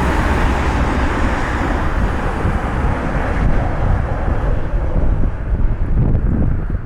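Jet airliner engine noise, a steady rush that slowly fades as the aircraft moves away, with wind buffeting the microphone.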